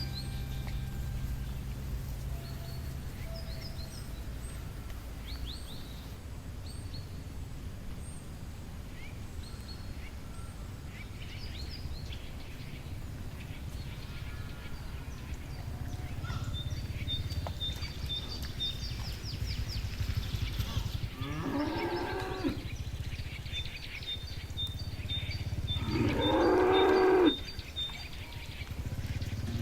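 Cows mooing twice in a pasture: one long moo about two-thirds of the way through and a second, louder one near the end. Between them come high, quick bird chirps over a steady low background noise.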